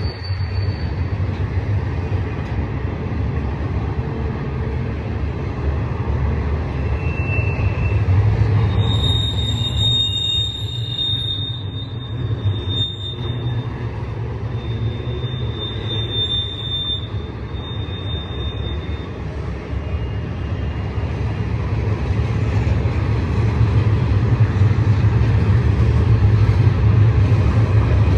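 Intermodal freight cars of a BNSF train rolling past with a steady low rumble. Thin high wheel squeal comes and goes from about a third of the way in until past the middle.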